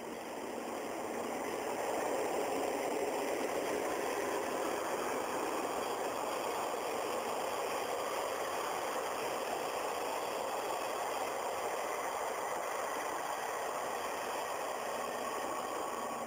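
Ginga overnight train passing by, a locomotive-hauled passenger train. Its running noise grows over the first couple of seconds and then holds steady.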